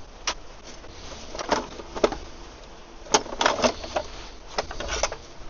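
A dozen or so irregular sharp metallic clicks and knocks from hand tools at work on a car's front suspension and steering joints, over a steady hiss of pouring rain.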